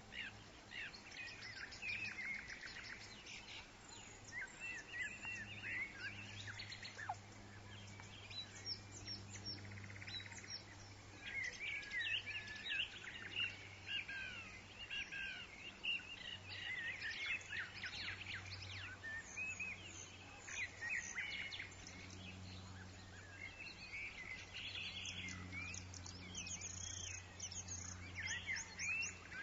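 Woodland birds chirping, many short, overlapping calls and trills from several birds at once, over a steady low hum.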